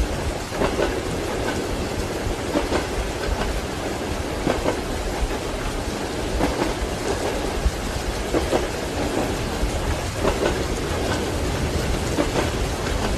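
Train wheels clattering over rail joints every second or two above the rumble of a moving railway carriage, heard from inside the compartment, with heavy rain and thunder.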